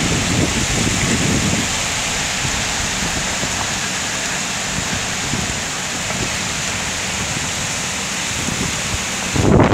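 Heavy rain hissing steadily, with strong wind gusts buffeting the microphone as a low rumble for the first second or so and again in a louder surge near the end, where the rain hiss suddenly falls away.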